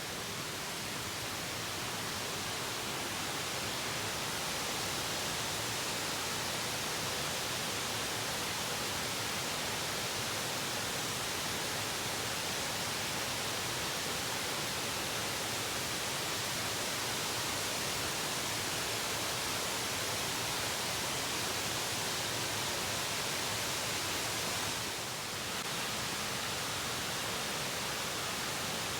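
Steady rush of falling water, an even hiss with no breaks that dips briefly near the end.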